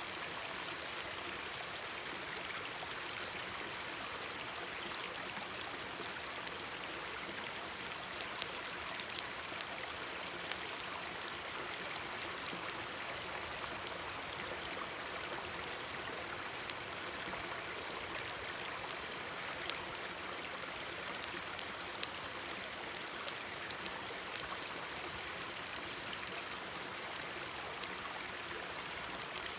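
Mountain stream babbling steadily, with a wood campfire crackling and popping in sharp, irregular snaps over it.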